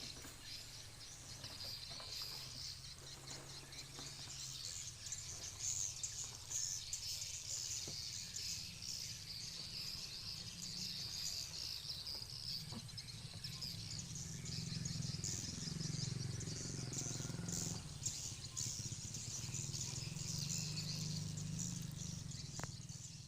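Edible-nest swiftlets twittering: a dense, unbroken stream of high chirps, with a steady low hum underneath that swells in the second half.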